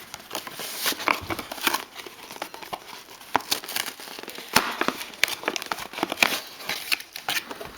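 Plastic packaging crinkling and rustling by hand, with many irregular sharp clicks and taps, as a Hot Wheels track set is unpacked.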